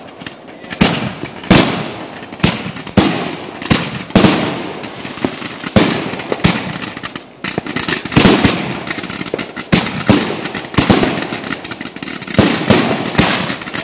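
Aerial fireworks going off in quick succession: sharp bangs of launching and bursting shells, one or two a second, with crackling between them and a brief lull about seven seconds in.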